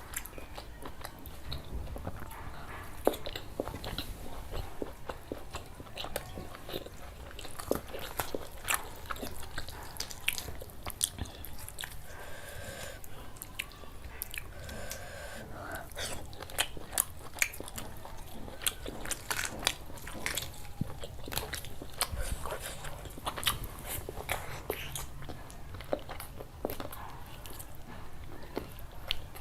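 Close-miked mukbang eating sounds: a person biting and chewing curry with rice, with many sharp crunches and wet clicks throughout.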